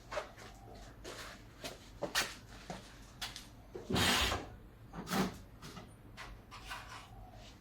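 Rummaging: a run of small knocks and clicks as things are handled and moved, with a louder half-second scraping rustle about four seconds in.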